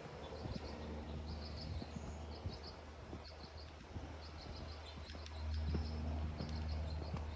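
Small songbird chirping in quick clusters of high notes, repeated about once a second, over a low steady hum that grows louder about five and a half seconds in. Soft footsteps tap now and then.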